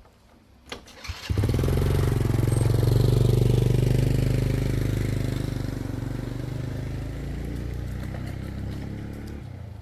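Motorcycle engine starting about a second in and running, then slowly fading away.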